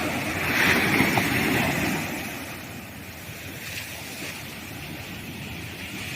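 Ocean waves breaking on a sandy beach: a wave crashes and swells about a second in, then fades into a softer wash of surf.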